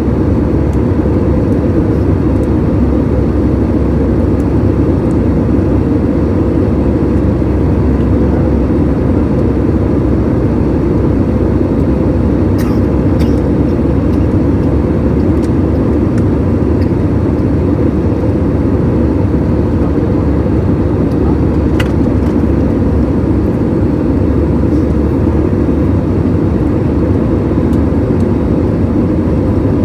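Steady engine and airflow noise heard inside an aeroplane cabin in flight, a constant low drone with a few faint clicks near the middle.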